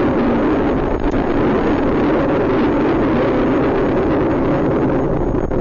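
Steady vehicle noise: a continuous rumble of engine and tyres, unbroken and at an even level.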